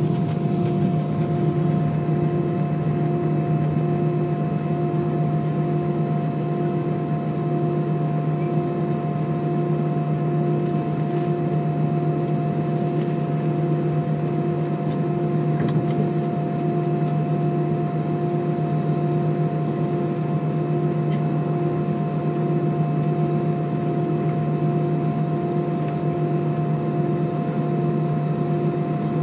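Steady jet engine hum and rushing air noise inside the passenger cabin of an Airbus A320, with several steady tones and an even pulsing in one of them; the level holds constant.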